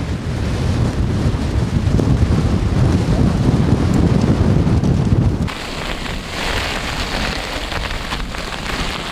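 Gale-force wind buffeting the microphone with a heavy low rumble. About five and a half seconds in it cuts abruptly to a steady, finer hiss of precipitation pattering down.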